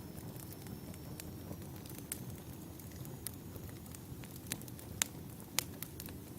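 Wood fire burning: a steady low rumble of flames with scattered sharp crackles and pops from the burning firewood, the loudest pops about five seconds in.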